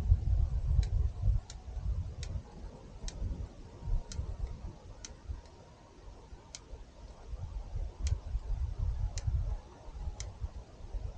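A series of sharp, light ticks, roughly one a second at uneven spacing, over a gusty low rumble of wind on the microphone.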